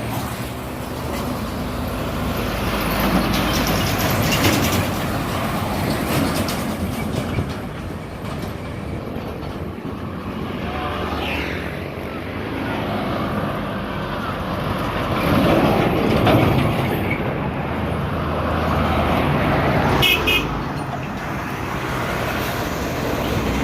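Highway traffic with trucks passing one after another, their engine and tyre noise swelling and fading as each goes by. A short vehicle horn toots about three-quarters of the way through.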